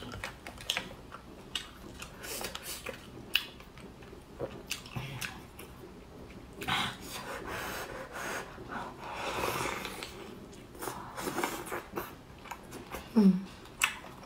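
Close-miked eating: biting into and chewing thick, sauce-dipped seafood meat, with many small wet mouth clicks and a couple of longer chewing stretches. A short voiced 'mm' from the eater near the end is the loudest moment.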